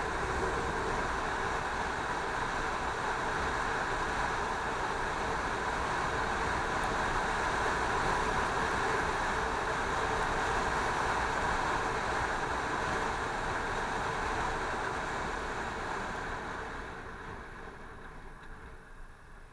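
Steady rush of riding noise from a Yamaha FZ6 motorcycle on the move, wind over the microphone with the engine beneath it, dying away over the last few seconds.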